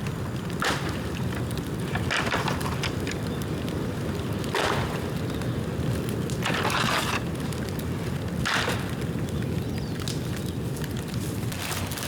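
Bonfire of rain-damp bamboo burning, with a steady low roar of flame and short crackling flare-ups every second or two, plus scattered small pops.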